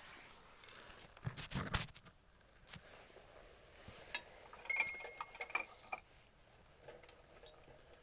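Short metallic clicks and clatters from the homemade cart being handled to start its small engine, with a louder rattle about a second and a half in and a brief squeak about five seconds in; the engine is not yet running.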